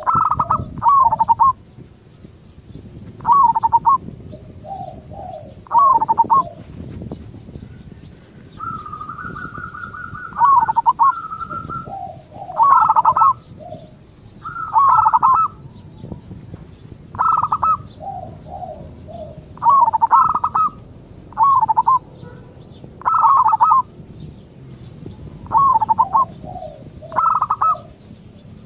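Zebra dove (perkutut) song: about a dozen short phrases of quick cooing notes, repeated every two to three seconds, with a longer trilled phrase about nine seconds in.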